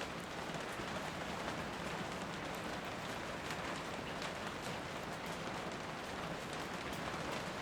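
Steady rain falling, an even hiss with occasional sharper drops.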